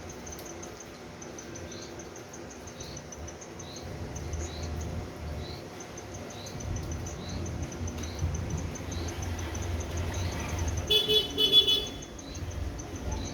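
Outdoor night ambience in a city: a small chirp repeating about every two-thirds of a second over a low rumble. About eleven seconds in comes a brief, loud, horn-like tone.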